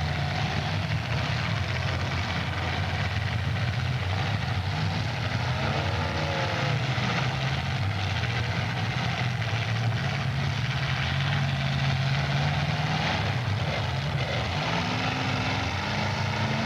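Engines of several demolition derby cars running together, a loud steady low drone, with short revs rising and falling now and then.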